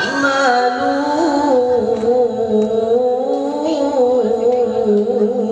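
A Qur'an reciter's voice drawing out one long melodic note in ornamented tilawah style, the pitch wavering up and down in turns. It is the elongated syllable 'ma' before 'ta'malun' at the end of the verse.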